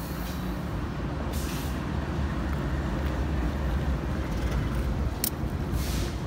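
A train rumbling by, a steady low rumble, with two short bursts of hiss and one sharp click near the end.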